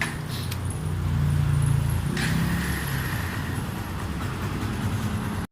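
Kawasaki Barako 2 motorcycle's single-cylinder engine running through an aftermarket Yutaka exhaust pipe, freshly tuned up with its carburetor adjusted. It gets louder about a second in, eases back after about two seconds, and cuts off suddenly at the end.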